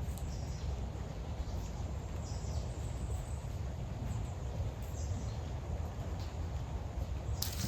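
Birds giving a few short, faint high chirps over a steady low rumble, with a sharp rustle near the end.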